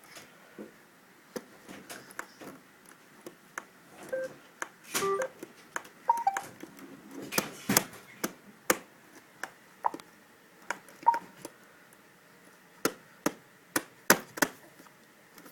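Irregular sharp clicks and knocks, with a few short beeps among them.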